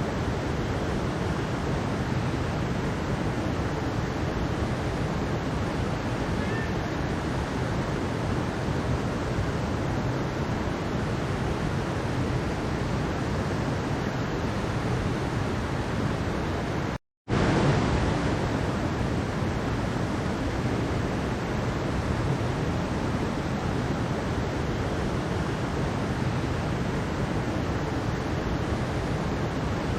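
Mountain stream water rushing steadily over rocks, an even roar. It cuts out completely for a split second a little past halfway, then resumes at once, like an edit or loop point.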